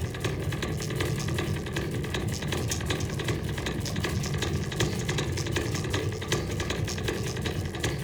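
Fast goa/psytrance electronic music: a dense, steady bass under rapid ticking percussion.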